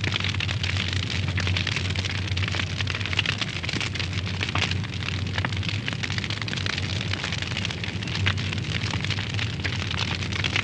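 Wood fire in a fireplace crackling steadily, with dense small snaps and an occasional sharper pop, over a steady low hum.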